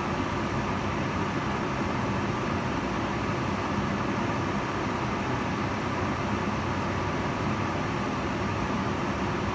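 Kitchen range hood extractor fan running steadily: an even whoosh of moving air with a low motor hum underneath.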